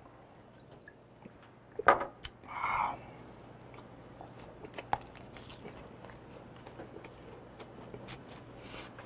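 Chewing and biting on a yellow croaker, a run of faint wet clicks and small crunches. About two seconds in, a sharp knock and then a short breathy exhale.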